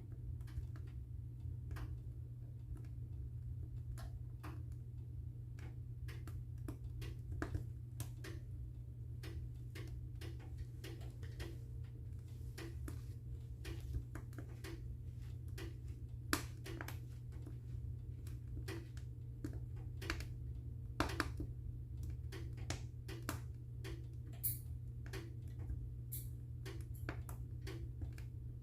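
Wood fire burning in a fireplace, crackling with irregular sharp pops and snaps, a few louder ones, over a steady low rumble.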